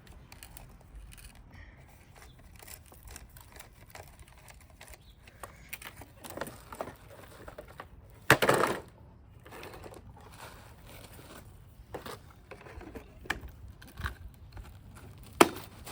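Scattered plastic clicks and rustling of dirt and leaf debris as a Roomba's dustbin is handled and emptied. A louder, half-second rattling noise comes about eight seconds in, and a sharp click near the end.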